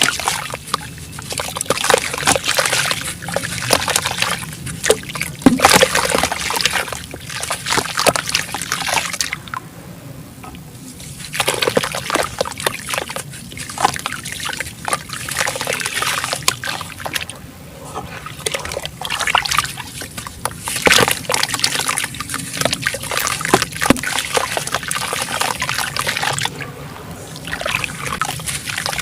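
Chunks of sand-cement crumbling and fizzing as they are dipped in water, with many small crackles, splashes and trickles. The sound comes in stretches, with short lulls about ten seconds in, near the middle and near the end.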